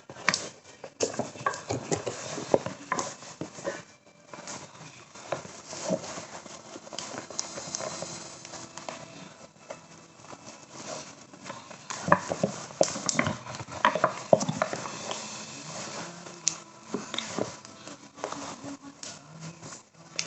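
Objects being handled and unpacked by hand: irregular clicks, taps and rustling, busiest about a second in and again around twelve to fifteen seconds in.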